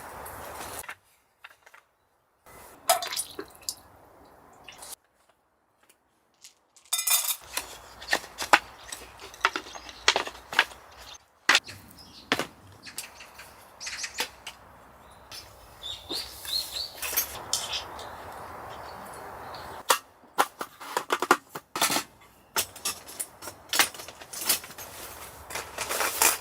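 Repeated sharp clicks and knocks of objects being handled, over a faint steady hiss, broken by several abrupt cuts to silence.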